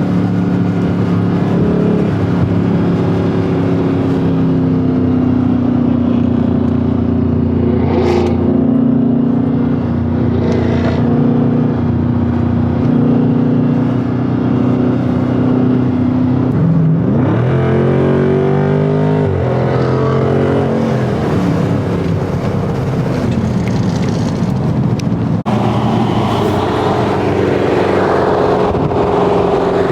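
Mopar muscle-car engines running at highway speed with a steady drone. About two-thirds of the way through the pitch drops and then climbs as the engine revs up under acceleration, and it rises again near the end.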